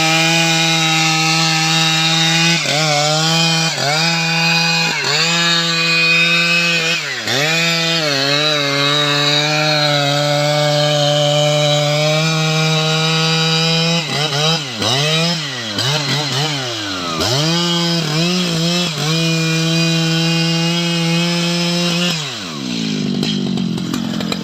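STIHL MS 881 two-stroke chainsaw held at full throttle while cutting teak wood, its pitch dipping briefly again and again as the chain bogs under load. Near the end the engine drops back off full throttle.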